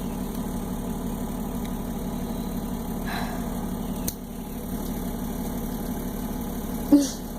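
Steady low engine hum, like a running motor vehicle. About four seconds in there is a click, and near the end a short, sharp pitched sound is the loudest moment.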